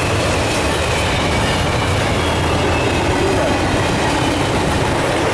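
Intermodal freight train passing at speed: a steady rush of wheels on rail with a faint high squeal.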